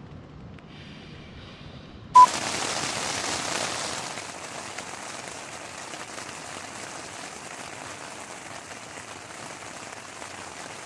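Rain pattering steadily on a tent's fabric, heard from inside the tent. It starts suddenly about two seconds in with a short, loud beep, is a little louder for the first couple of seconds, then settles to a steady patter.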